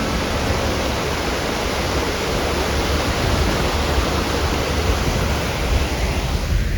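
Rushing water of a mountain stream or waterfall, a steady dense rush that fades out near the end.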